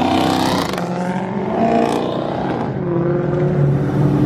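A car engine revving at a car meet: the pitch climbs sharply near the start, rises again about two seconds in, then settles into a steady low drone.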